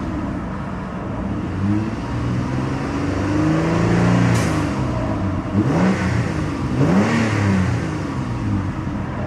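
2007 Mitsubishi Galant GTS's 3.8-litre single-overhead-cam V6 being revved: a longer climb and drop in revs midway, then quick blips of the throttle about a second apart near the end.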